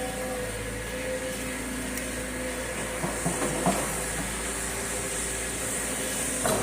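Volvo 210 excavator's diesel engine running steadily with a constant hum and hiss, with a few brief sharper sounds in the middle and near the end.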